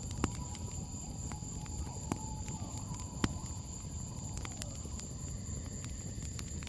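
Campfire crackling, with irregular sharp pops over a low steady rumble, while a steady high-pitched insect trill runs underneath. A faint drawn-out tone slides slowly downward about four seconds in.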